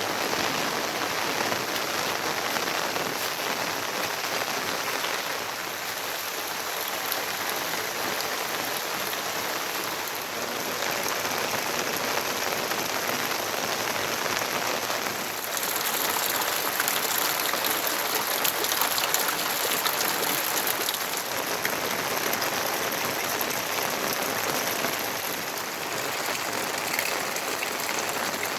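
Steady heavy rain falling, an even hiss dotted with countless small drop hits.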